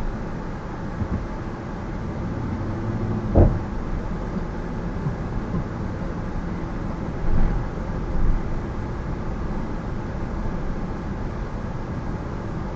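Car driving slowly, with steady engine and road noise. There is a sharp knock about three and a half seconds in, and a couple of smaller bumps later on.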